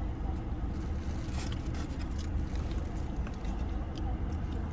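Steady low rumble of a car heard from inside the cabin, with a few faint clicks and rustles over it.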